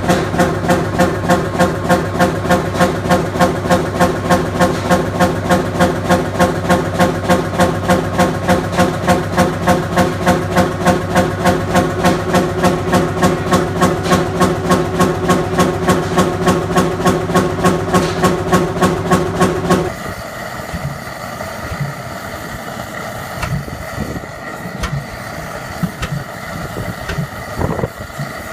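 Big old Fairbanks Morse stationary engine running with a steady, even exhaust beat of about three strokes a second. About two-thirds of the way through the sound cuts to a quieter, less regular engine running with a thin steady whine.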